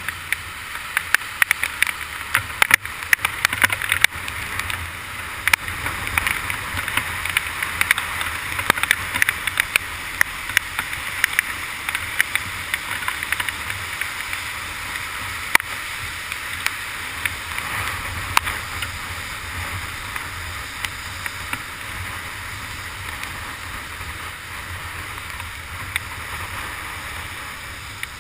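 Heavy rain and wind rushing over a motorcycle-mounted camera, with many sharp ticks of raindrops striking the case, while riding a Honda CG 150 Titan. The bike's single-cylinder engine runs as a low hum underneath.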